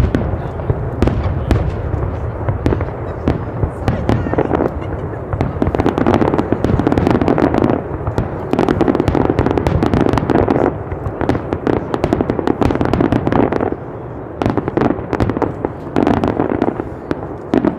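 Fireworks going off in quick succession: a dense, continuous crackle of sharp reports, swelling in several stretches of a couple of seconds each.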